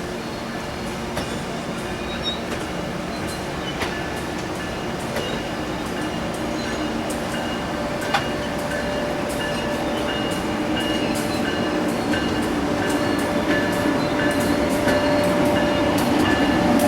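Passenger train rolling on rails, growing steadily louder, with scattered sharp clicks and a steady high whine that sets in about halfway.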